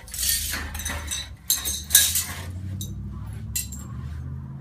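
Glassware and dishes clinking and rattling in bursts over a low steady rumble, the clinks thinning out about halfway through.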